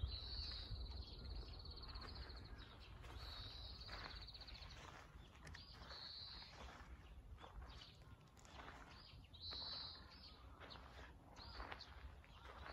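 Faint outdoor ambience: a small bird repeats a high, rapid trill about every three seconds, some lasting over a second and others shorter. Scattered soft footsteps sound under a low rumble of wind or distant traffic.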